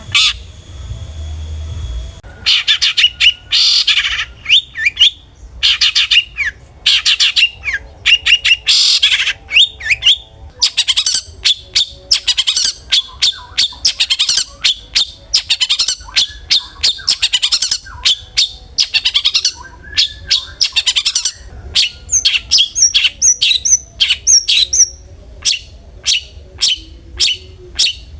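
Long-tailed shrike (cendet) calling: rapid runs of short, harsh, sharp notes repeated in bursts, with a string of rising whistled notes late on.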